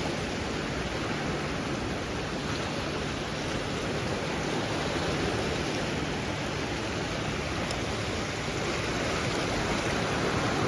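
Sea waves washing onto the beach: a steady, unbroken rush of surf.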